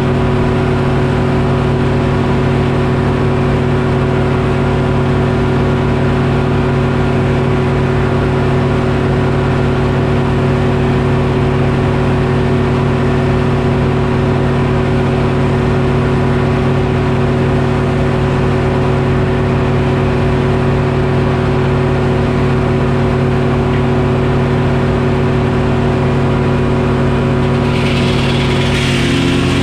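Detroit Diesel engine powering a Frick sawmill, running at a steady speed. Near the end a hiss joins in and the engine note shifts slightly.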